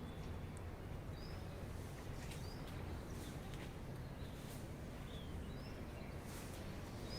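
A few faint, short bird chirps scattered through, over a steady low background rumble, with some faint clicks.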